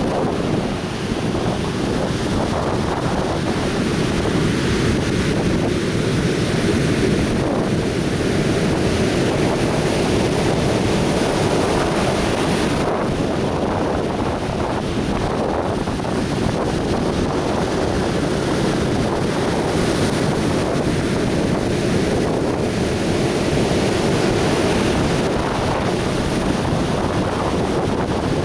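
Atlantic Ocean surf breaking and washing on a beach in a steady, unbroken rush, with wind buffeting the microphone.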